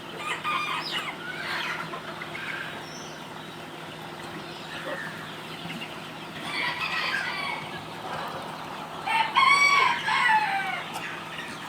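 Chickens clucking and calling, with a rooster crowing loudly about nine seconds in.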